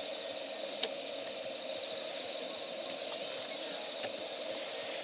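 Wood campfire burning, with a few sharp crackles over a steady high-pitched drone.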